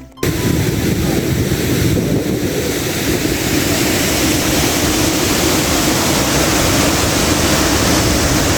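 Stream water rushing loudly and steadily, cutting in abruptly just after the start.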